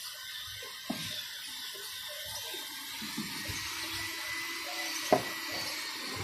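Steady hiss of water spraying, with a few light knocks and one sharp click about five seconds in.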